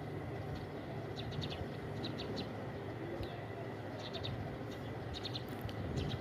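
Sparrow chirping: short, quick clusters of high chirps repeating every second or so, over a steady low hum.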